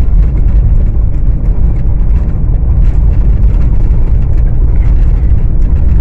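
Car on the move: a loud, steady low rumble of road and engine noise, with small scattered knocks and rattles.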